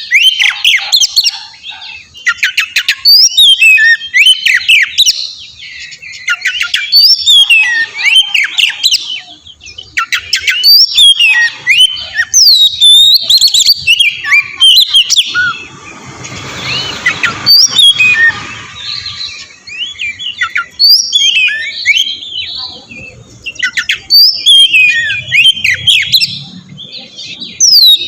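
Oriental magpie-robin (kacer) singing loudly in repeated bursts of varied whistles, slurred glides and chatters. A rougher, hissing passage comes in just past the middle for about three seconds.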